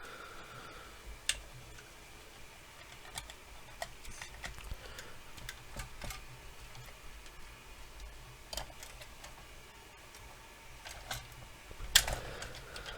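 Scattered light clicks and taps from handling a small plastic RC model and its parts, a few a second at most and irregular, with the sharpest click near the end.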